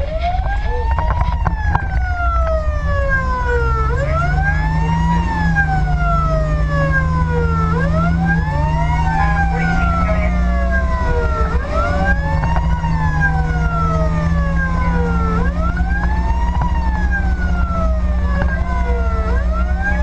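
Fire engine's siren on a wail, rising quickly and falling slowly about every four seconds, with a second wail slightly out of step, over the steady rumble of the truck's engine while it runs an emergency response.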